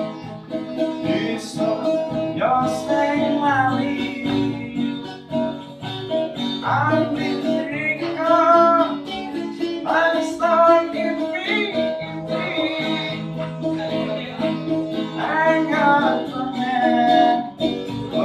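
A street busker singing a melody, accompanied by a plucked string instrument.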